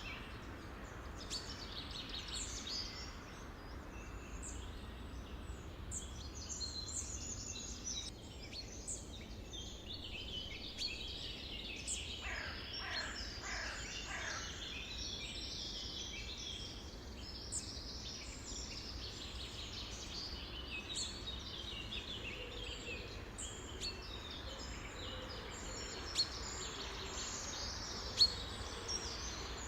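A chorus of many wild birds singing and calling at once, a dense run of high chirps and trills over a steady low rumble. About twelve seconds in comes a run of downward-sliding calls, and two sharp clicks sound near the end.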